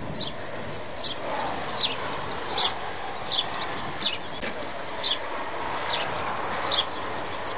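A bird calling with short high chirps, repeated about every three-quarters of a second, over a steady rushing outdoor background noise.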